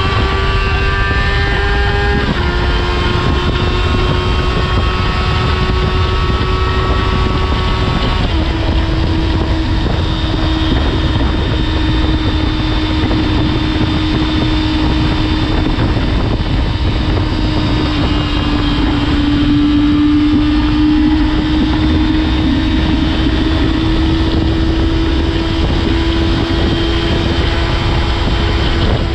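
Yamaha FZR250R's high-revving 250 cc inline-four through a Nojima aftermarket exhaust, running at high revs under way with wind noise on the microphone. The engine note drops sharply twice, about two and eight seconds in, then climbs slowly and holds high.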